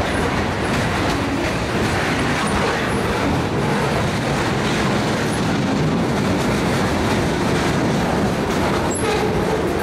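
Freight train of lumber-loaded centerbeam flatcars and boxcars rolling past at close range: a steady rumble of steel wheels on rail with faint scattered clicks.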